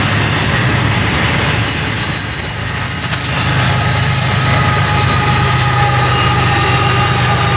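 Double-stack container train rumbling past on the rails. Its mid-train helper, a CSX diesel locomotive, comes by about halfway, bringing a louder steady low engine drone and a high steady whine.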